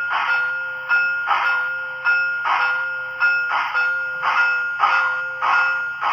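Sound decoder of an HO scale steam locomotive model playing a ringing locomotive bell, struck over and over about every half second, mixed with rhythmic steam exhaust chuffs through the model's small speaker.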